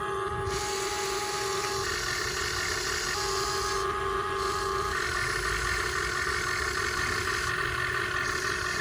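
Radio-controlled excavator's electric hydraulic pump and motors whining steadily, the tones stepping on and off every second or two as different functions are worked, over a low mechanical rumble.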